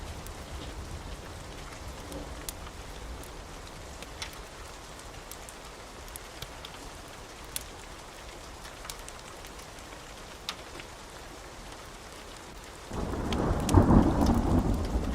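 Wood fire crackling in a fireplace: scattered sharp pops over a steady hiss. About thirteen seconds in, a loud deep rumble sets in and keeps going.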